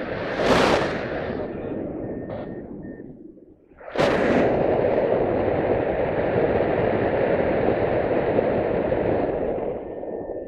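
Wind rushing over the microphone in gusts: a short blast about half a second in, then a sudden steady rush from about four seconds in that eases off near the end.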